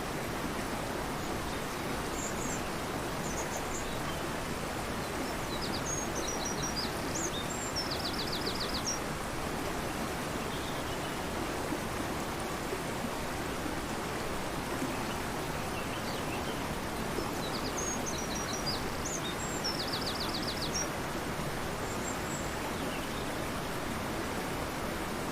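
A fast-flowing river rushing steadily, with a songbird singing the same short phrase twice, about ten seconds apart, each phrase ending in a quick trill.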